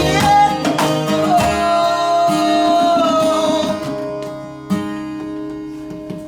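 A band with guitars playing the closing bars of a song: a chord with a long held high note, the playing falling away about four seconds in, then one last chord struck and left to ring out.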